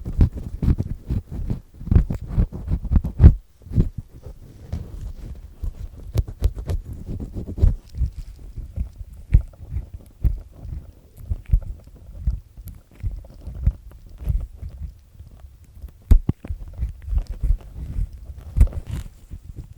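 Earpick with a black triple-disc tip scraping earwax off inside an ear canal, close up: irregular grinding rubs and crackles, with a deep muffled rumble.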